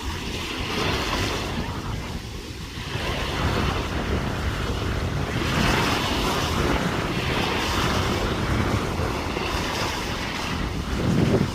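Wind buffeting the microphone over the wash of sea surf, growing louder a few seconds in.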